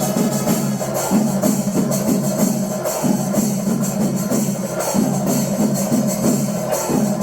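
Kerala temple percussion ensemble playing: drums beaten in a fast, dense rhythm with small cymbals clashing continuously over them, at a steady loud level.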